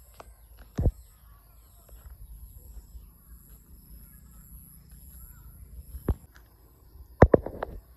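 Irregular knocks and thumps, likely footsteps and handling of the phone while walking a field path, with a quick loud cluster of them near the end. Under them a low rumble and a steady high-pitched insect buzz from the fields.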